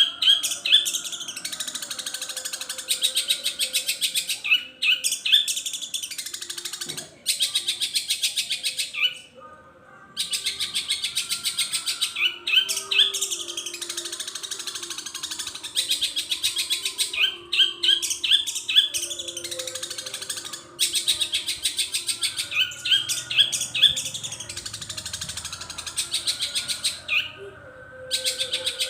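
Long-tailed shrike (cendet) singing long, continuous phrases of very rapid, high chattering notes with mimicked calls worked in, broken by a few short pauses.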